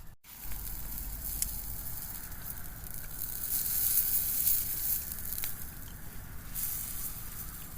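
Meat and green onions sizzling as they cook, a steady hiss with a few sharp pops that grows louder in the middle.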